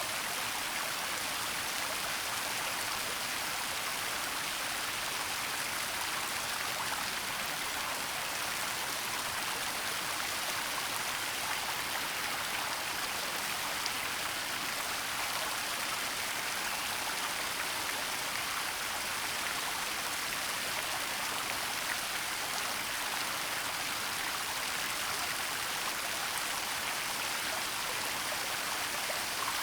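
Waterfall and running water: a steady, even rushing hiss that carries mostly in the upper range, with no change or break.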